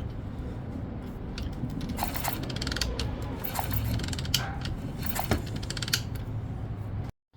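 Irregular metallic clicking and ratcheting from hands-on work on a pit bike's ignition, over a steady low rumble.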